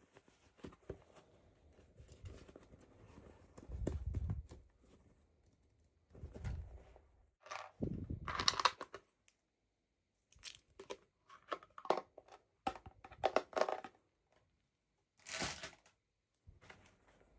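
Toy packaging being opened by hand: irregular bursts of crinkling and tearing with small knocks, broken by short pauses.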